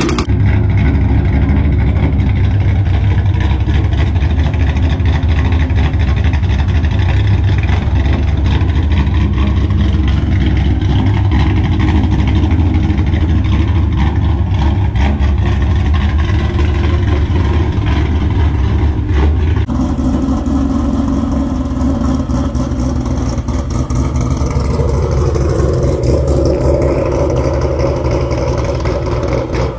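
Ford Mustang GT's 5.0 V8 exhaust at a choppy, lumpy idle from a ghost cam tune, which makes a stock engine idle as if it had an aggressive camshaft. About twenty seconds in the sound changes abruptly, and a few seconds later the engine note rises.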